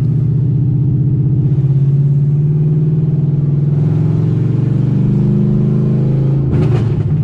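LS V8 engine in a Camaro heard from inside the cabin while driving, its note rising steadily under acceleration. Near the end the note drops, with a short noisy burst as it does.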